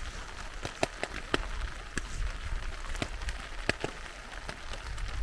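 Spring rain falling steadily, with irregular sharp clicks of individual drops landing close by.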